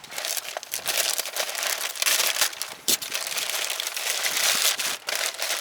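Parcel packaging crinkling and rustling as it is handled and opened.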